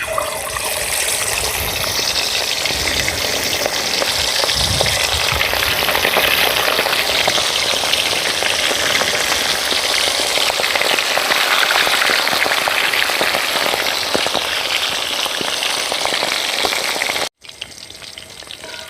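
Masala-marinated quail going into hot oil in a pan and frying with a loud, steady sizzle that starts as they hit the oil and cuts off abruptly near the end.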